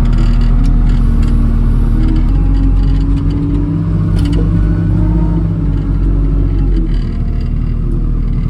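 Portable sawmill's engine running loudly and steadily, its pitch shifting slightly a couple of seconds in.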